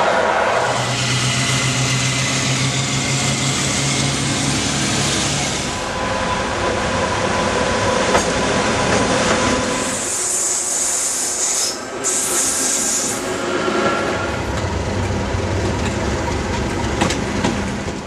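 Trains passing at speed: rolling wheel noise and rail clatter in several short takes that change abruptly. A steady low hum runs through the first few seconds, and a bright high-pitched hiss or squeal comes in for a few seconds past the middle.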